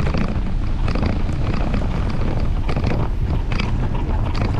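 Wind buffeting the microphone of a bike-mounted camera while riding, a loud rumble broken by frequent short knocks and rattles from the camera shaking about on its mount.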